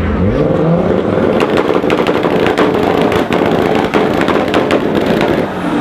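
A car engine held on a two-step launch limiter, with its exhaust crackling and popping rapidly while the revs hang steady at the limit. The revs drop near the end.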